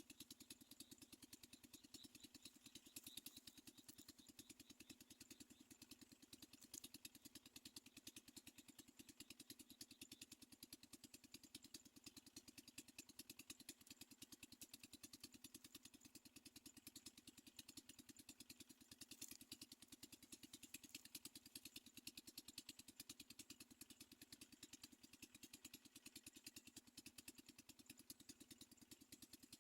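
Near silence, with a faint, steady, rapidly pulsing hum.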